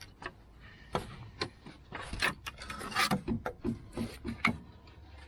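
Front lower control arm of a Toyota Celica T23 being worked into its mounting: a string of sharp metal knocks and clunks, with a scraping rub around the middle.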